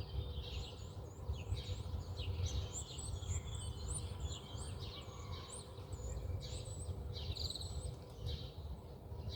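Many small birds chirping and twittering at once, short high calls overlapping without a break, over a steady low rumble.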